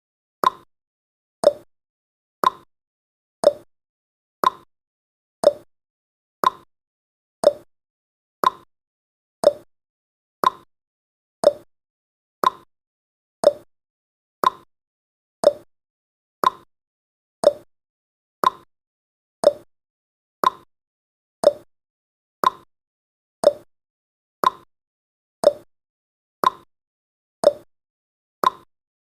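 Countdown timer's tick sound effect: a short, sharp tick once every second, evenly spaced, each fading out quickly.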